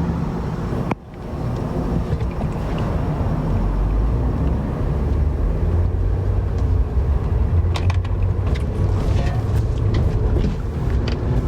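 Steady low rumble of a moving car, with a brief break about a second in.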